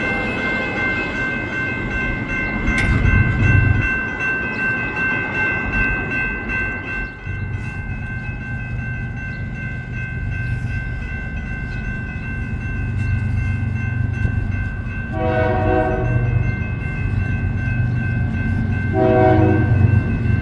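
Diesel freight train passing with a steady low rumble, and a steady high-pitched ringing for the first seven seconds or so. The locomotive horn sounds twice: a blast of about a second and a half near the three-quarter mark, then a shorter one near the end.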